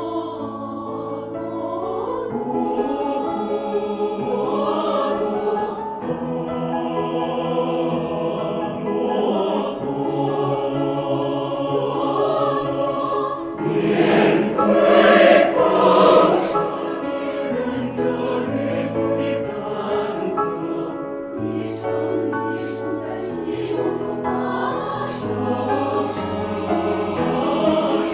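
Mixed choir singing sustained chords in several parts with piano accompaniment, swelling louder about halfway through.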